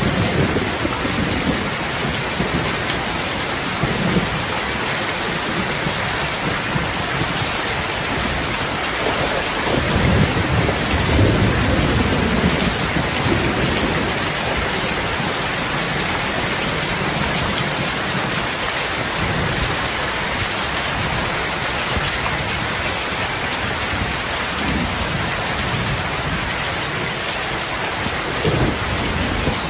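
Heavy rain falling steadily, with low rolls of thunder rumbling underneath, the strongest about ten seconds in.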